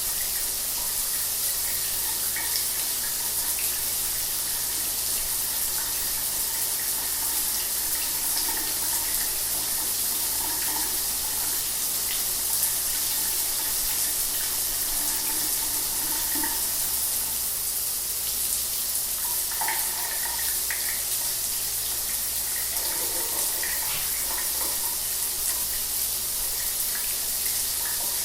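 Shower water running steadily, a continuous hiss of spray with small splashes scattered through it.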